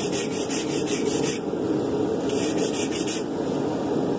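Wire brush scrubbed rapidly back and forth over a forged steel blade, about six strokes a second, stopping briefly about a second and a half in and then resuming for about a second.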